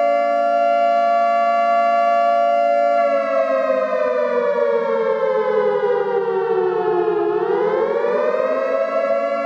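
Outdoor civil-defense warning siren, the kind sounded for a tornado warning. It holds a steady wail, then its pitch sinks slowly from about three seconds in and swings back up near the end.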